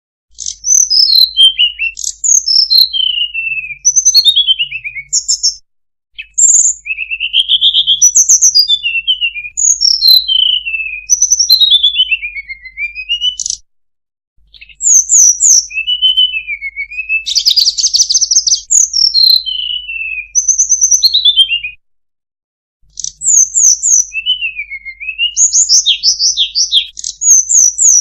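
Song of the sulingan (tledekan) bird as used for a lure call: high, thin whistled phrases, many sliding downward, repeated rapidly in bouts broken by short silences.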